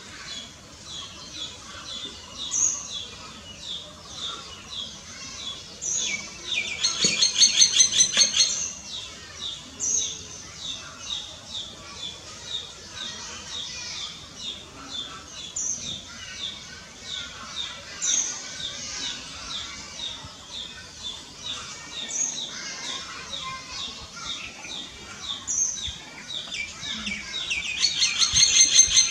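Common myna calling: a steady run of short repeated chirps, about two a second, broken twice by a louder, fast rattling chatter lasting a second or two.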